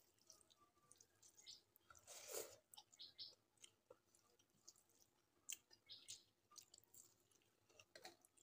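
Faint close-up eating sounds: chewing and small wet mouth clicks, with soft squelches of fingers mixing rice and dal on the plate. The loudest sound is one short noisy burst about two seconds in.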